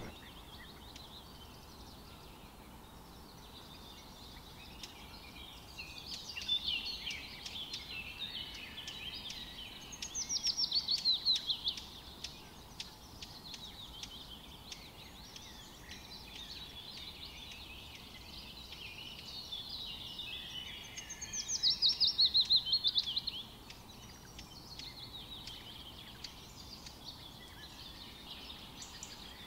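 Several birds singing and chirping at once, with a loud run of quick, repeated descending notes twice, about ten seconds in and again a little past twenty seconds.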